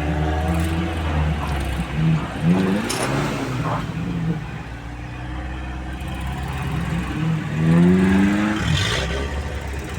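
Off-road vehicle engine running steadily at idle, with indistinct voices twice, at about two seconds in and near the end.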